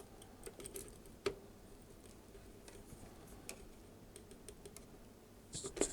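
Faint, scattered small clicks and taps of hand soldering on a circuit board: the soldering iron tip and tools touching the chip's pins and the board. There is a louder click about a second in and a quick run of clicks near the end.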